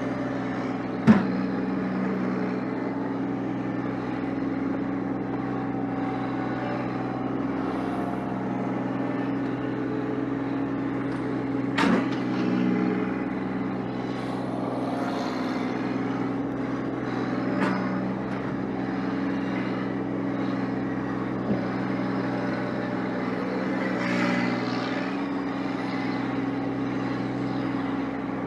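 A vehicle engine running steadily while clearing snow, with a few sharp clunks, the loudest about a second in.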